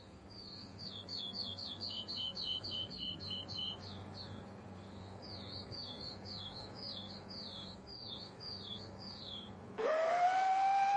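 A songbird singing two quick series of repeated chirps over a faint steady hum. Near the end a loud, sustained whistle-like tone starts abruptly, rising slightly in pitch.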